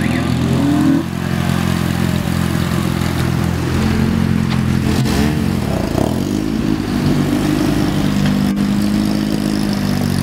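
Honda Civic's B16A2 1.6-litre VTEC four-cylinder running at low revs as the car rolls past close by, with small rises and falls in pitch about five to six seconds in.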